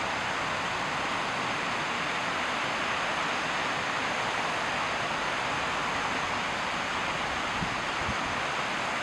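Steady rushing of flowing water, an even hiss with no pauses or changes.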